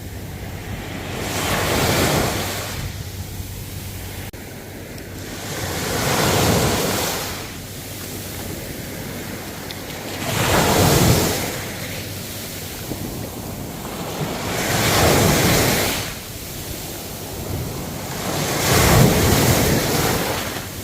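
Ocean waves: five swells of surf about four seconds apart, each a rush that rises and then fades away.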